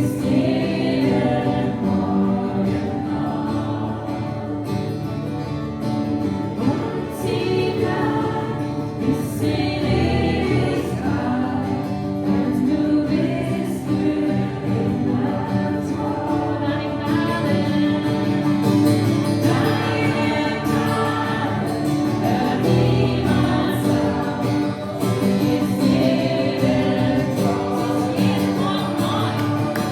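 Live worship music: a group singing together over guitar accompaniment.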